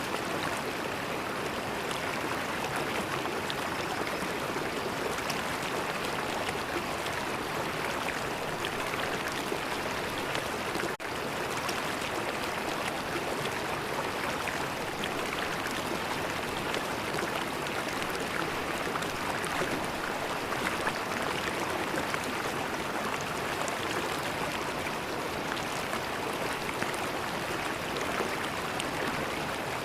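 River water flowing in a steady, even rush, with one momentary dip in level about eleven seconds in.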